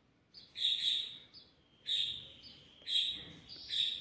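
A small bird chirping: about five short, high calls, roughly one a second.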